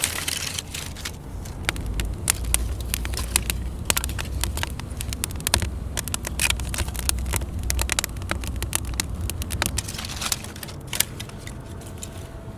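Dry cattail leaves rustling and crackling as they are handled, with many irregular sharp crackles over a low rumble.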